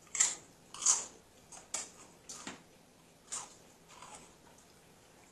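Crunchy chips being bitten and chewed close to the microphone: about six sharp crackling crunches, a half second to a second apart, fading out after about four seconds.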